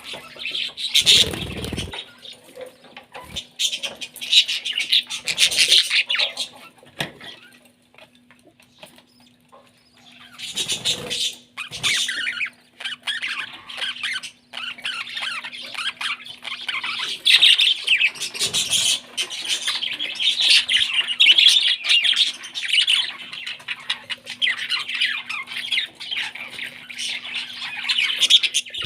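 Parrot chicks giving harsh, rasping begging squawks in repeated bursts as they are fed, with a quieter gap about eight seconds in. A faint steady hum lies underneath.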